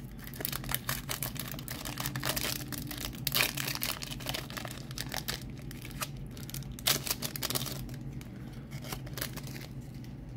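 Foil Pokémon booster pack wrapper crinkling and tearing as the pack is opened, in irregular sharp crackles.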